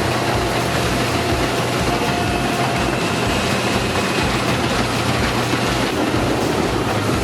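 Large wood grinder running: a steady heavy engine drone under continuous noise as it grinds tree trunks into chips.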